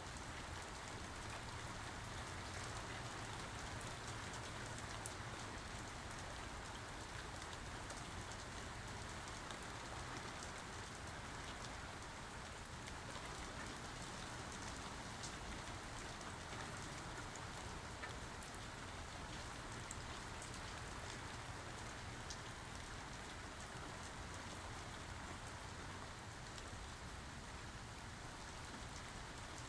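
Steady rain falling, an even hiss with scattered fine drop ticks and no thunder.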